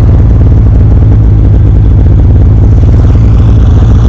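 Snowmobile engine idling steadily and loudly close by, with a low, even pulsing.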